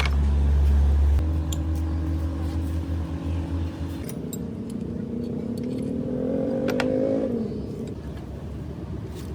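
A motor vehicle's engine running, with a low hum that drops away after about a second, then a pitch that climbs from about four to seven seconds in as it revs, then falls away.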